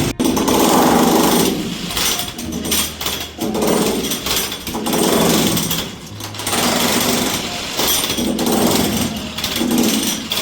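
Loud construction machinery running hard, a rattling, hammering power-tool sound that swells and eases every second or two.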